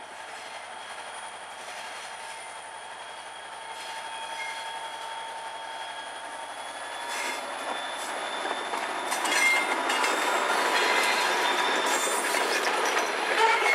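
A short freight train of salt cars rolling on the rails, its wheels squealing in thin steady high tones. From about seven seconds in, clicking over the rail joints joins in and the sound grows steadily louder as the train comes closer.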